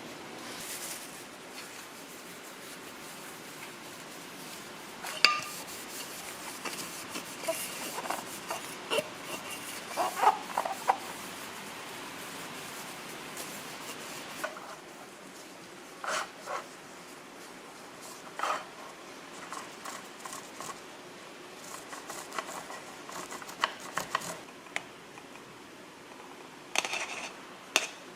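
Kitchen handling sounds: scattered clinks, taps and rubbing of dishes and utensils over a steady background hiss, with a busier run of clinks around ten seconds in.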